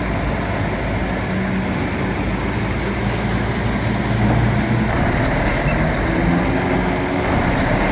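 Bulldozer diesel engine running steadily, its note shifting slightly up and down.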